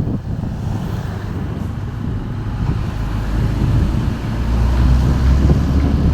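A motor vehicle running, with wind buffeting the microphone; the low rumble grows louder over the last couple of seconds.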